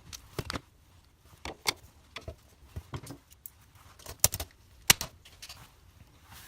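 Irregular sharp clicks and taps of hard plastic and metal as a wall power point is screwed and clipped into place, the loudest two clicks coming shortly before and right at the two-thirds mark.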